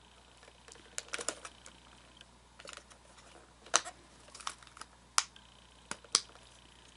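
Irregular sharp clicks and knocks of hard plastic parts being handled and fitted together while an animatronic figure's hip gear housing is reassembled, about a dozen in all, the loudest a little before the middle and near the end.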